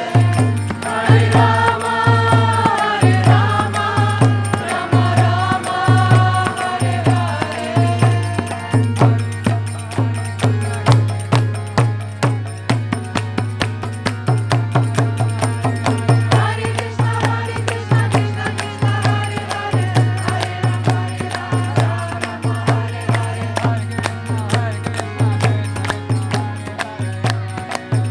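Kirtan: voices chanting a devotional mantra in long held notes over a steady, fast drum beat with quick metallic clicks, the singing strongest in the first third.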